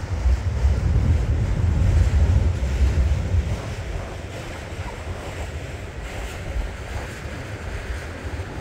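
Loaded freight train's autorack cars rolling past, a steady rumble of wheels on rail, with wind buffeting the microphone. The deep rumble eases about three and a half seconds in.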